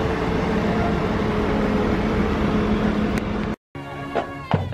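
A police SUV's engine running steadily as it rolls slowly past, a constant hum under a broad rush of noise. About three and a half seconds in, the sound cuts off abruptly and gives way to claps and voices.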